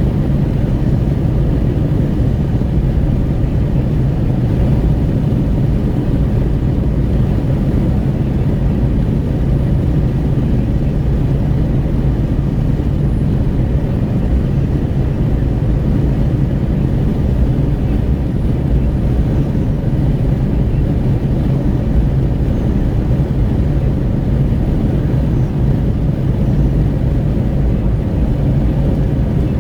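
Wind rushing in at an open car window, with tyre and road noise, inside a Renault Kwid 1.0 cruising on a highway. The engine's low drone runs steadily underneath.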